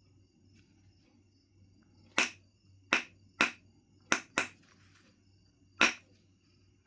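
Knife River Flint being knapped: six sharp, high clicks as blows strike flakes off the stone, irregularly spaced, with two in quick succession about four seconds in.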